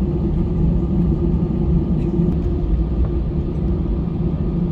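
Steady low rumble and hum inside the passenger cabin of an Airbus A320-200 airliner, the noise of its engines and the airflow or rolling around the aircraft.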